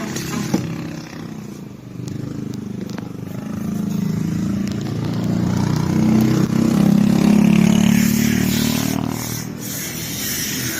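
Heavy diesel truck engine running and revving. It builds to its loudest around the middle and eases off near the end.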